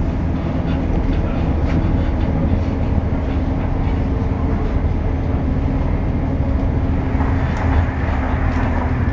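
Passenger train running on the rails, heard from inside the carriage: a steady low rumble with a low hum from the running gear and an occasional click.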